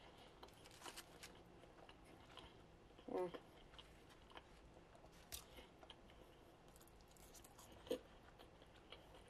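Faint chewing and small mouth clicks from someone eating French fries and a BLT sandwich, with a short hummed sound about three seconds in.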